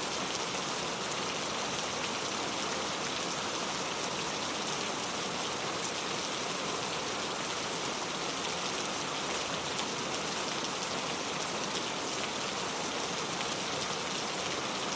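Steady rain falling, a dense even hiss of drops with fine individual patters, at constant strength.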